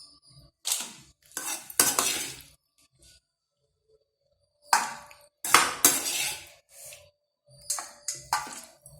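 A spoon stirring and scraping in a metal cooking vessel in four short bursts of about a second each, as the lemon rice is mixed.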